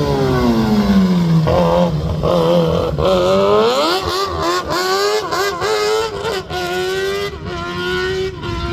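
Rally car engine with revs falling for the first two seconds, then climbing again about three seconds in, wavering and briefly cutting out as it rises, before holding steady revs near the end.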